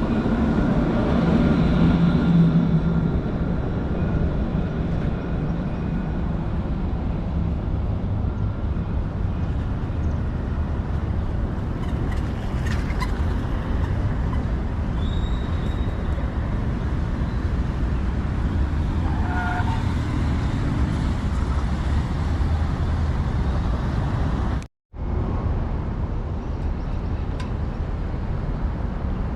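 Steady low rumble of a moving vehicle. A few steady tones stand out in the first few seconds, and the sound cuts to silence for a moment about 25 seconds in.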